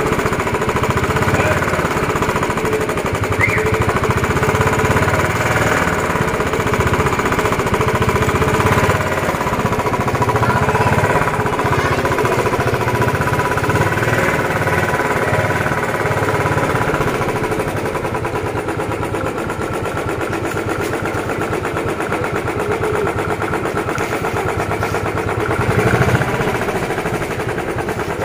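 Royal Enfield Bullet 350 single-cylinder four-stroke engine running with a fast, regular thumping beat, easing off slightly partway through and briefly revving up near the end.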